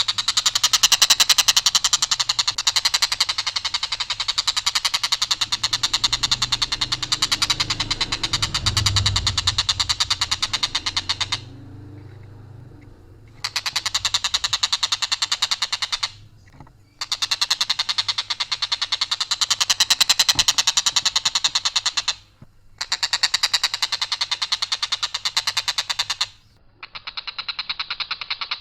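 Tengkek buto (collared kingfisher) giving long, harsh, rapid rattling calls in sustained bouts, broken by a few short pauses. A low rumble runs underneath in the first half.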